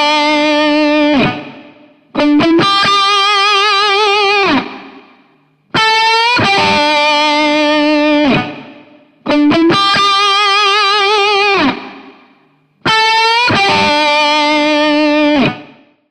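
Electric guitar through effects, playing slow phrases. Each phrase is a held note with vibrato that fades away, and they come about every three and a half seconds.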